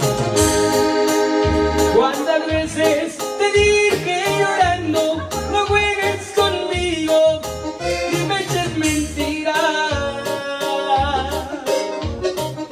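Live Mexican regional band playing an instrumental passage: accordion carrying the melody over a steady bass beat.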